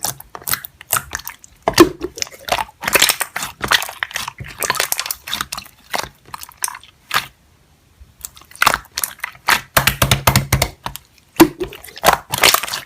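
Slime being squished and stretched by hand, with dense wet clicks and pops from trapped air bubbles and a pause of about a second near the middle.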